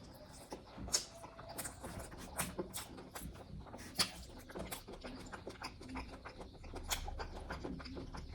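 Close-miked eating sounds: irregular wet clicks and smacks of chewing and lip-smacking on pork curry and rice, with a few sharper smacks about a second, four seconds and seven seconds in.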